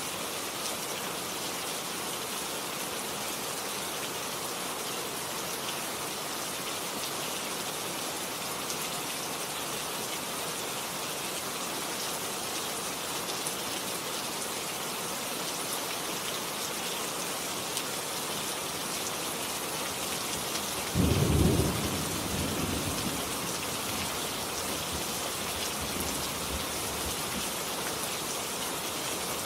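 Steady rain falling. About two-thirds of the way through, a sudden low clap of thunder rumbles off over the next couple of seconds.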